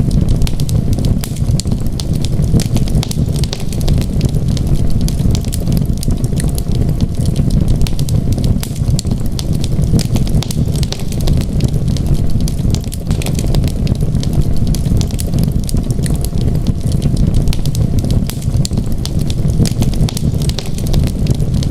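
Wood fire crackling in a fireplace: many small irregular snaps and pops over a steady low rumble of the burning fire.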